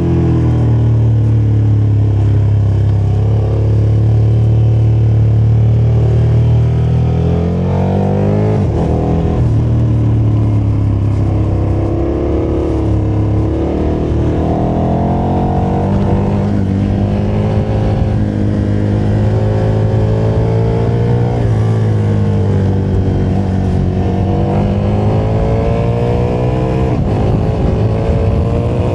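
KTM motorcycle engine running under way on the ride. Its revs climb and drop sharply several times as it shifts through the gears.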